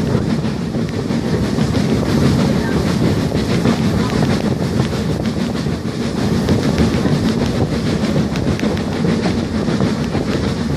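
Heritage railway train running along the track: a steady rumble with faint clicking from the wheels over the rails.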